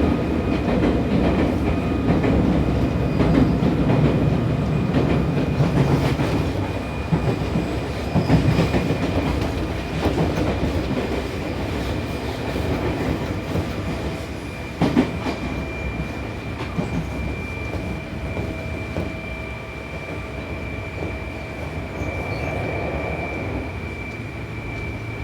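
Running sound inside a Seibu New 2000 series electric train at speed: a steady rumble of wheels on rail with clickety-clack over joints and points, and a sharp knock about 15 seconds in. A thin high squeal from the wheels on curves runs through it, and the rumble eases off in the second half.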